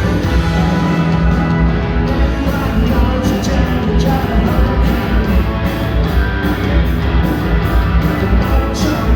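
A rock band playing live at full volume: electric guitar, bass and drums, with cymbals struck in a steady beat.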